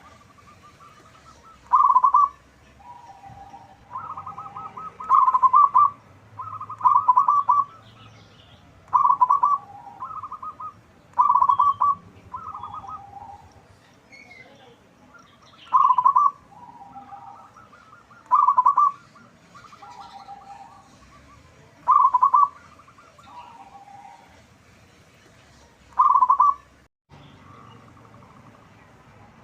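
Zebra doves (local perkutut) cooing: loud rhythmic coo phrases every two to four seconds, with softer lower coos between them.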